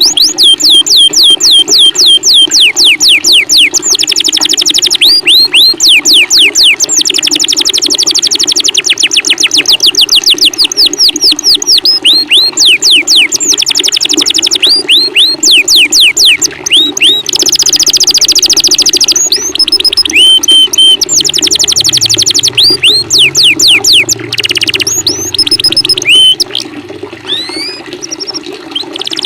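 A songbird singing a fast trill of down-slurred whistles, many notes a second, in phrases broken by short pauses and a few changes of pattern. A steady rush of running water runs underneath.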